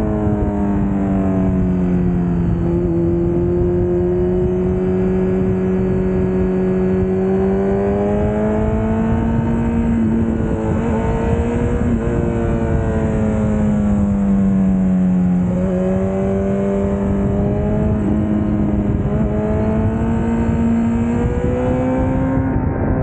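Honda CBR1000RR's inline-four engine running at speed, heard from a camera mounted on the bike. Its pitch sinks and climbs several times as the throttle is rolled off and opened again. A steady rush of wind noise runs underneath.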